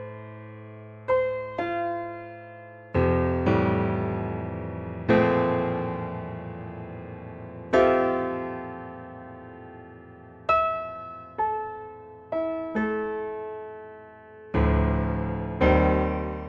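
Slow solo piano music: single notes and chords struck every second or two, each left to ring and fade.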